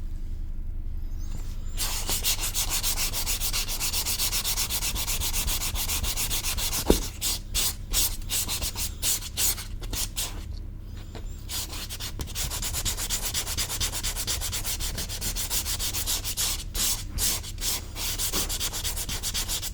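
Sandpaper rubbed over hardened leather filler paste in quick back-and-forth strokes, smoothing the repair. The sanding starts about two seconds in, has a single sharp knock partway through, and pauses briefly a few times.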